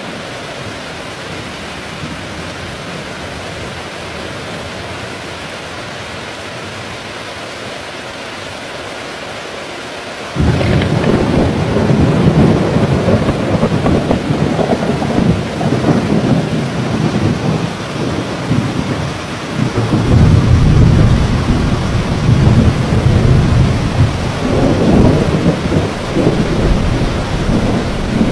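Steady heavy rain, then about ten seconds in a loud rumble of thunder breaks in suddenly and keeps rolling over the rain, swelling again twice near the end.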